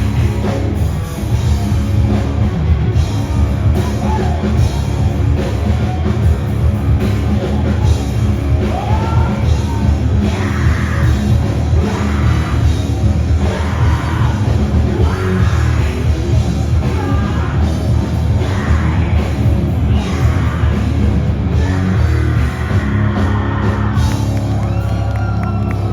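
Rock song played by a full band, with singing coming in strongly about eight seconds in.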